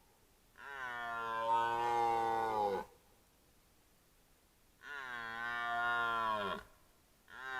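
Red deer stag roaring in the rut: two long roars of about two seconds each, the pitch dropping at the end of each, and a third roar starting near the end.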